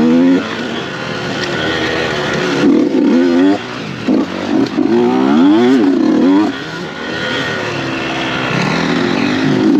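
Dirt bike engine revving up and down as the throttle is worked, its pitch climbing and falling again and again, with brief dips when the throttle is shut about four and seven seconds in.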